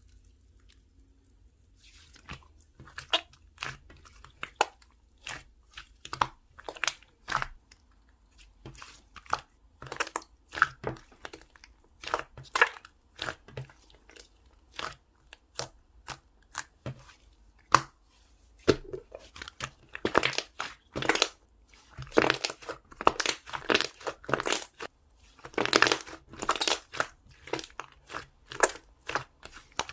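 Homemade soothing-gel slime being squeezed and folded by hand, giving irregular sharp pops and crackles. They start about two seconds in and come thicker in the second half.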